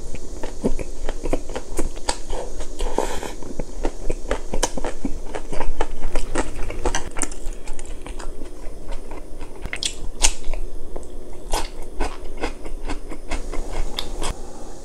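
Close-miked chewing of a mouthful of rice and spicy stir-fried pork, with many sharp, irregular crunchy bites and wet mouth sounds. Cucumber kimchi is then crunched.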